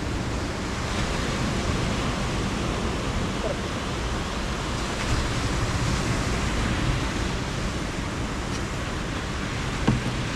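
Steady rushing wash of ocean surf, with a single sharp click near the end.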